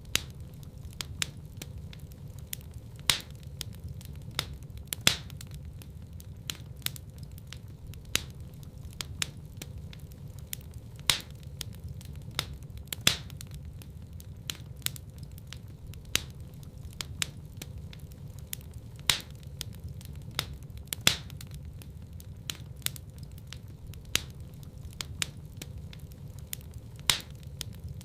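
Wood fire crackling in a fireplace: sharp, irregular pops and snaps, a few much louder than the rest, over a steady low rumble of the flames.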